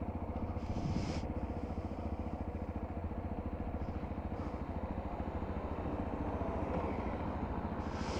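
125cc motorcycle engine running steadily on the move, an even pulsing drone under a rushing noise, with brief louder swells of rushing about a second in and near the end.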